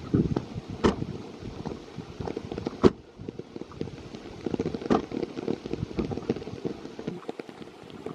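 Rain pattering and crackling close to the microphone, with rustling, and three sharp taps about two seconds apart.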